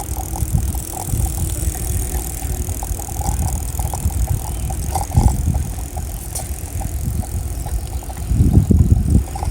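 Riding a bicycle on a road: a steady low rumble of wind and road noise on the microphone, with a louder swell near the end.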